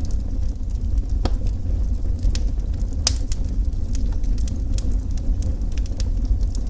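Wood fire burning in a fireplace: scattered sharp crackles and pops over a steady low rumble, the loudest pop about three seconds in.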